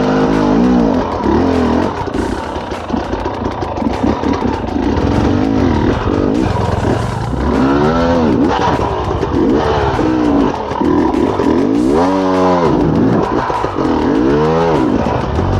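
Enduro dirt bike engine revving up and down in repeated bursts of throttle, with big surges about eight, twelve and fourteen seconds in.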